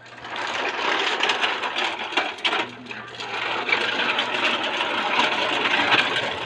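Tonka toy truck being pushed along, its wheels and body rolling and rattling steadily. The rattle dips briefly about two and a half seconds in.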